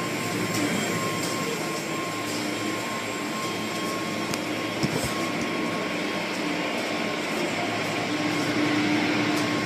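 Automatic car wash machinery running with a steady rushing noise and a faint steady tone.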